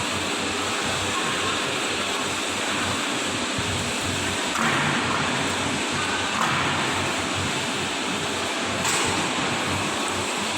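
Steady machinery noise of a stretch bending machine running, with a few short louder surges about halfway through and again near the end.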